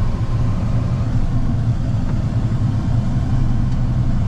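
Vehicle engine and road noise heard from inside the cab while driving: a steady low hum under an even rush.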